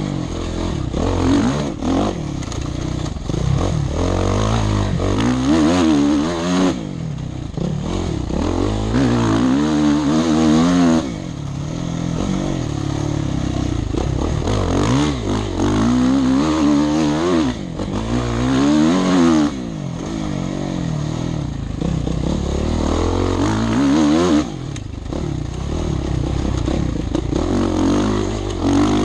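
Dirt bike engine revving hard and easing off around a track, its pitch repeatedly climbing and falling, with several sudden drops as the throttle is shut, heard from the rider's helmet.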